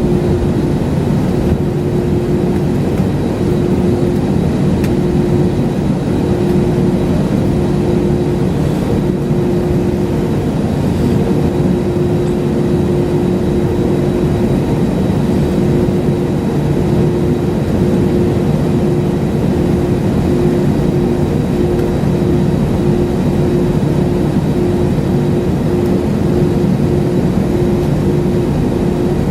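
Steady jet-airliner cabin noise: engine and airflow hum, with a mid-pitched tone that fades in and out.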